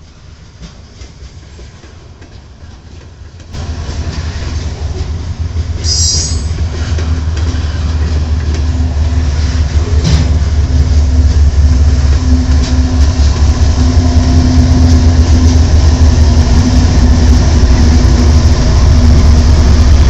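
Freight train rolling past on the rails, a heavy rumble that comes in suddenly a few seconds in and keeps getting louder, with a brief high-pitched wheel squeal about 6 seconds in and scattered rail clicks.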